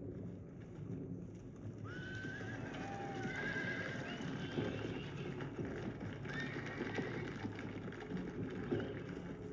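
Horses neighing several times, starting about two seconds in, over the clatter and shuffle of hooves.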